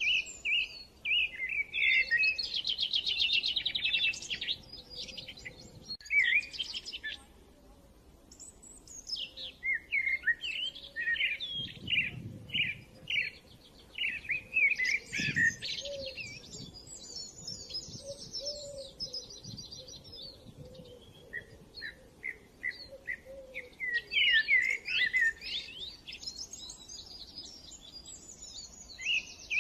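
Small songbirds chirping and singing in long runs of rapid twittering trills, with short pauses between phrases.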